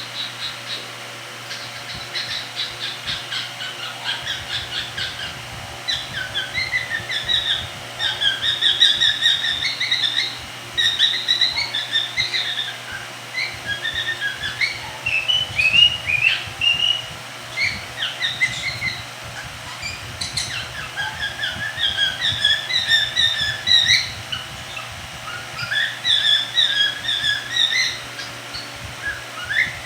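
Cockatiel chirping and whistling: quick strings of short notes that rise and fall in pitch, with now and then a longer gliding whistle.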